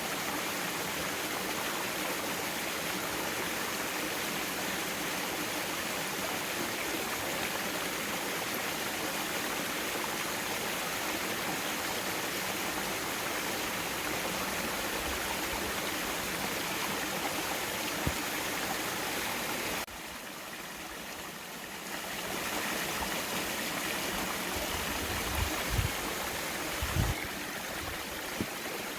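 Mountain valley stream flowing over rocks: a steady rushing and gurgling of water. It drops briefly quieter about twenty seconds in, and a few low bumps sound near the end.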